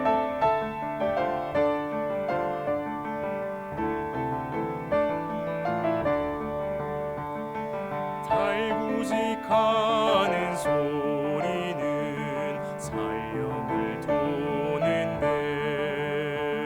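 Piano introduction to a Korean art song, with a baritone voice coming in about eight seconds in, singing with vibrato over the piano.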